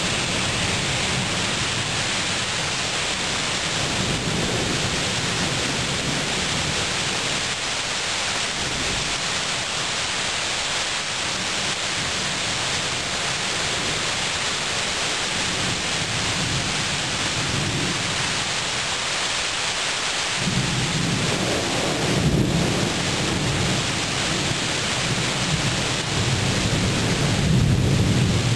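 Thunderstorm: steady rain hissing, with low rolling thunder rumbles that swell louder from about two-thirds of the way in, strongest near the end.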